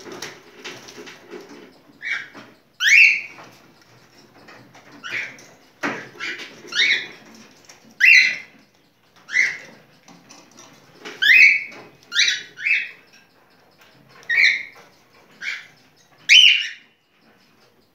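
Cockatiel singing its mating song: a string of short, rising whistled notes, repeated every second or so.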